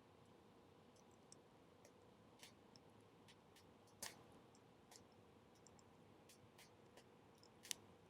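Wood bonfire burning low and crackling: sparse, irregular sharp pops over a faint steady hiss, the loudest about four seconds in and another near the end.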